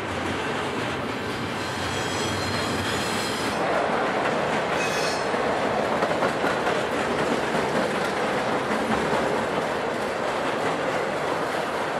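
Double-stack intermodal freight train of container well cars rolling past: a steady rumble of steel wheels on rail. Brief high-pitched wheel squeals come in the first half, and the sound grows a little louder about three and a half seconds in.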